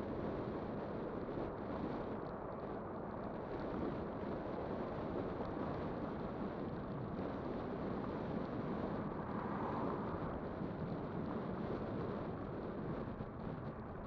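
Steady rush of wind over the microphone and rolling noise while riding an electric bike.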